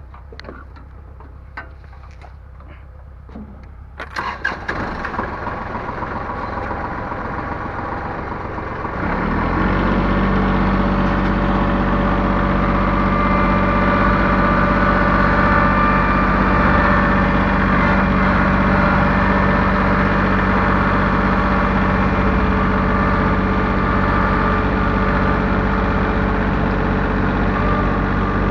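A few clicks, then an engine starts about four seconds in. About nine seconds in it gets louder and then runs steadily.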